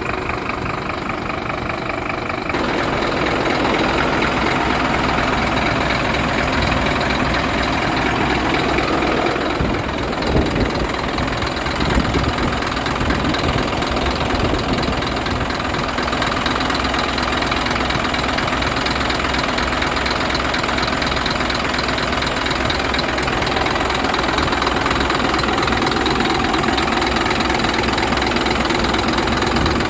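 Diesel engine of a Scania P-series truck running steadily at idle. The sound grows louder and fuller about two and a half seconds in, with a couple of brief bumps around ten to twelve seconds in.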